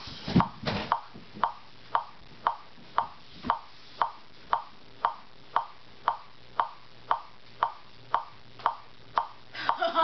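Steady, even ticking, about two sharp ticks a second, like a clock ticking.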